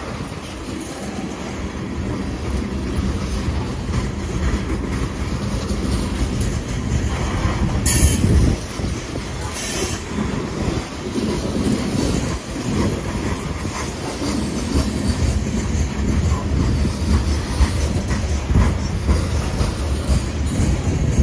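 Coal train's open-top hopper cars rolling past with a steady low rumble of wheels on rail. Brief high-pitched squeals come about eight and ten seconds in.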